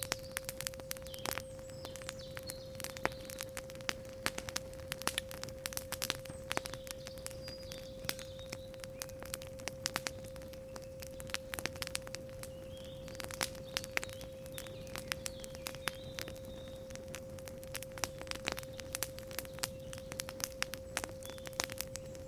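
Campfire crackling in irregular sharp pops over a steady pure 528 Hz sine tone, with faint bird chirps in the background.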